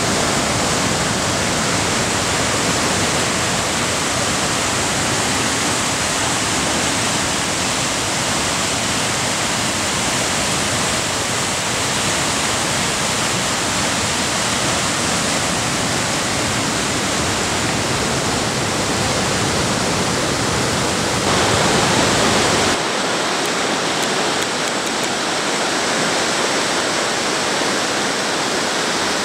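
Loud, steady rushing water, like a waterfall or mountain torrent. About 23 seconds in, the sound changes abruptly and loses its deep low end.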